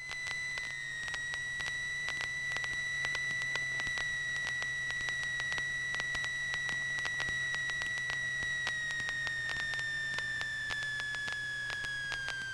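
Cessna 150's stall warning horn sounding a steady high tone through the landing flare, dropping slightly in pitch near the end: the wing is near the stall as the plane is held off for a full-stop touchdown. A low engine drone at idle runs beneath it.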